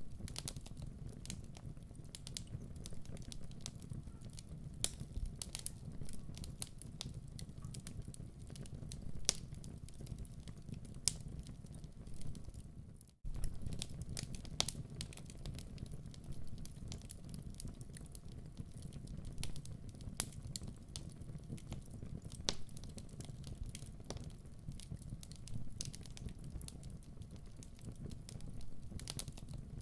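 Wood fire in a fireplace crackling, with irregular sharp pops over a low steady rumble. The sound cuts out for an instant about thirteen seconds in.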